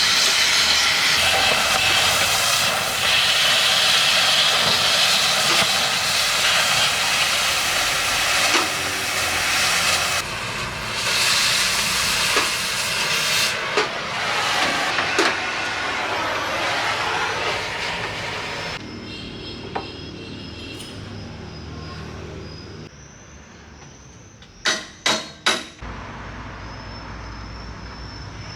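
Cutting torch flame hissing loudly and steadily, then cutting off about two-thirds of the way through. Near the end, four quick sharp knocks.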